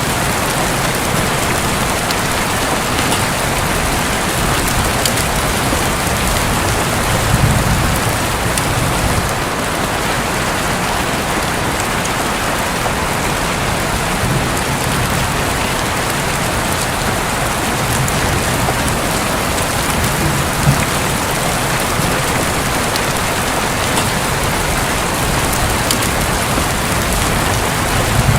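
Steady rain falling on a roof, an even hiss of many drops, with a couple of brief heavier low thuds about seven and twenty-one seconds in.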